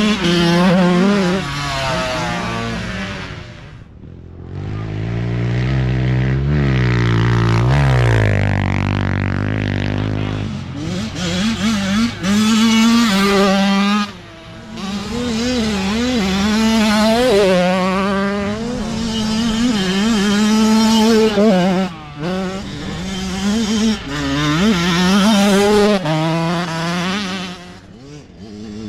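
Youth dirt bike engines racing by one after another, each revving up and dropping back as the riders twist the throttle and shift. Between about five and ten seconds in, a deeper-pitched bike passes and its pitch falls away.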